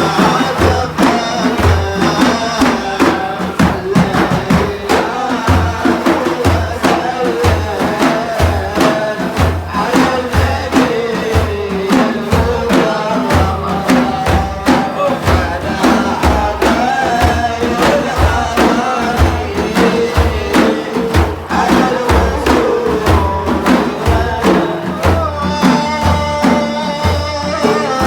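Sufi devotional praise song: a voice singing a wavering, drawn-out melody over a steady beat of heavy drum strikes.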